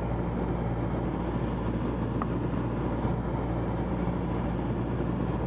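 Cessna 172's engine and propeller droning steadily in the cockpit in level flight: a constant low hum under a broad hiss.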